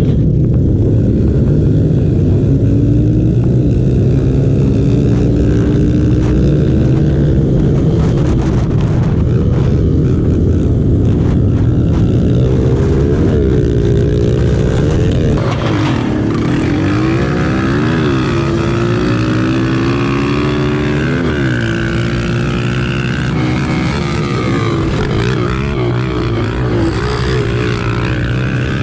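Several pit bike engines running together at full throttle. The pitches rise and fall and cross over one another as the riders accelerate and shift, with the revving most varied about halfway through.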